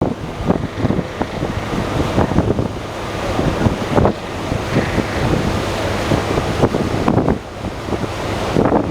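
Airbus H175 helicopter's rotor and turbine noise, heavily buffeted by wind on the microphone, with irregular gusty thumps throughout.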